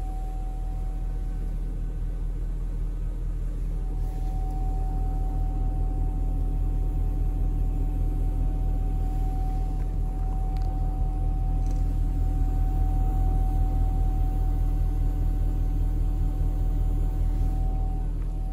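BMW E38 740i's 4.4-litre M62 V8 engine idling steadily while warming up after a cold start, with a faint steady whine running over the engine note.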